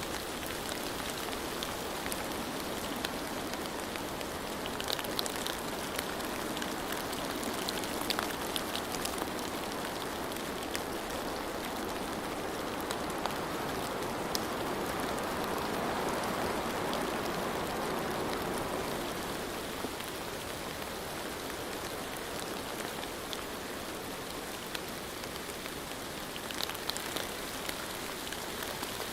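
Steady rainfall with scattered individual drops ticking sharply on top, swelling a little in the middle and easing off again.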